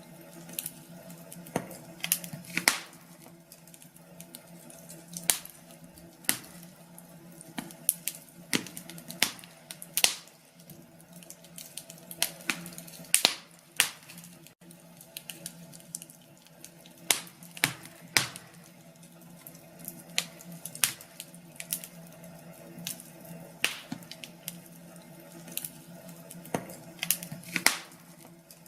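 Wood fire in a fireplace crackling, with irregular sharp pops and snaps, some much louder than others, over a steady low background.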